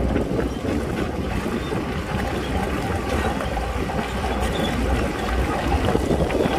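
Shantui bulldozer working: a steady low diesel rumble, with a few faint clicks from the tracks and stones.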